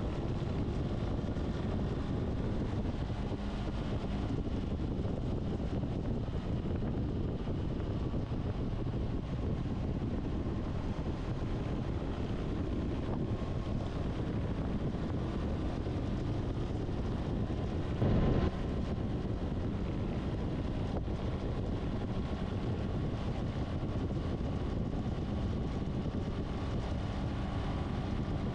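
Motorcycle on the move at steady speed: engine running under a steady rush of wind on the microphone. A brief louder burst about 18 seconds in.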